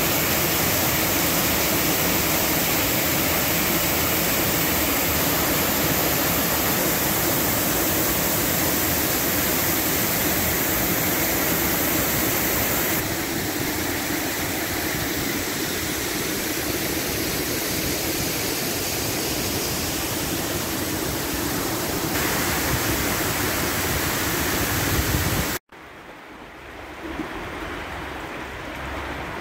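Waterfall: falling water rushing steadily. About halfway through it drops a little in level. A few seconds before the end it cuts off abruptly and returns as a much quieter water sound.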